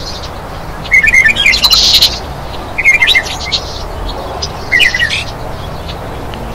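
A bird calling in short chirping phrases, one about every two seconds, over steady background noise.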